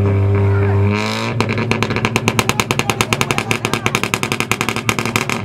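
Honda Civic's engine held at steady revs, then banging on a two-step launch limiter: a rapid, even string of sharp pops, about ten a second, for about four seconds before it cuts off.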